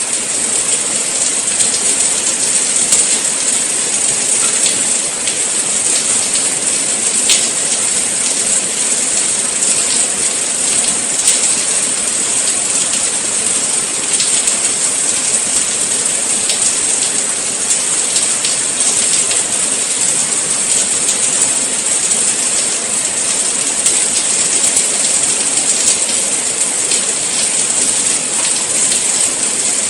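Steady rain falling: a dense, even hiss with faint scattered ticks of individual drops.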